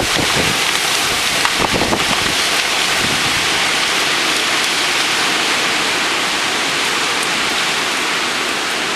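Wind storm with heavy rain: a steady, loud rushing hiss, with wind gusts buffeting the microphone in the first couple of seconds.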